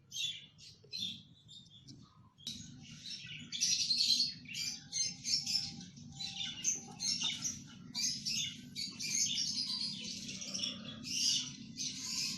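Several budgerigars chirping and chattering in quick, short calls, sparse for the first couple of seconds and then almost without a break.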